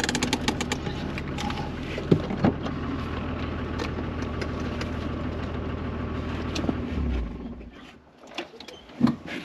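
A 4x4's engine idling steadily, with scattered clicks and crunches over it; the engine sound ends with a low thump about seven seconds in, leaving it much quieter.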